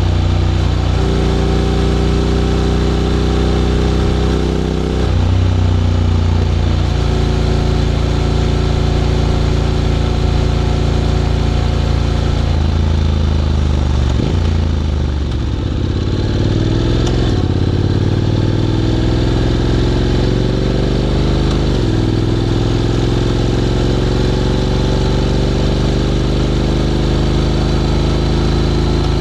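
Honda X-ADV 750's parallel-twin engine through an SC-Project titanium slip-on exhaust while riding. Its pitch steps with several gear changes, drops sharply about 14 seconds in as the rider slows, then climbs steadily as the bike accelerates again.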